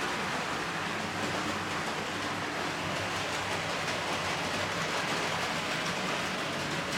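OO gauge model train running steadily on the layout's track, an even, continuous whirr of the small motor and wheels on rail.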